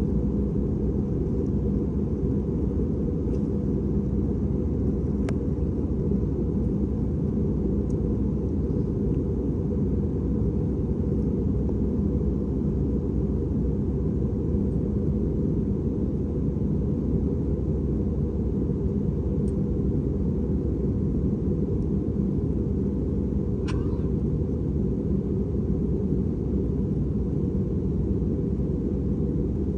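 Steady low rumble inside the cabin of an Airbus A320 in flight, engine and airflow noise with a constant hum, and a couple of faint ticks.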